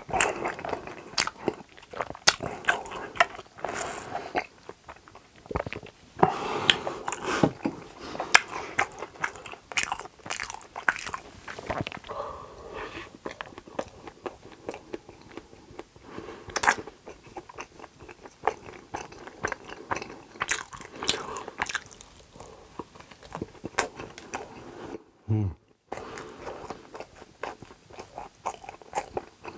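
Close-miked eating sounds: biting and chewing soft donuts, with crunchy, sticky mouth noises throughout.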